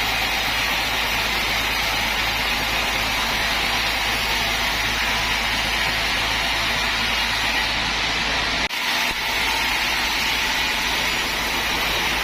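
Sawmill machinery running steadily, a continuous rushing noise over a low hum, with a brief drop about nine seconds in.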